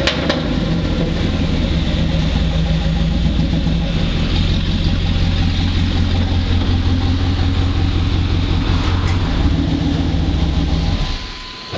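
1996 GMC Sierra C2500's 5.7-litre (350) V8 idling with the muffler cut off and no tailpipe, a loud, steady open-exhaust note. The engine stops about a second before the end.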